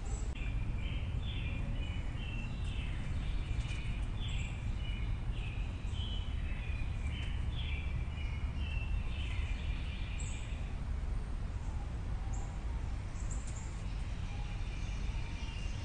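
Outdoor ambience: a steady low rumble with small birds chirping in quick runs of short, high notes. The chirping stops about ten seconds in and starts again near the end.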